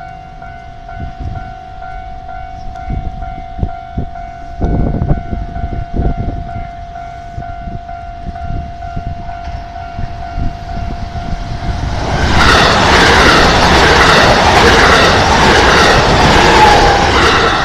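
A Japanese level-crossing alarm rings steadily as a repeating electronic tone. About twelve seconds in, a JR 287-series electric limited-express train passes over the crossing, and its loud rushing and rhythmic wheel clatter drowns the alarm.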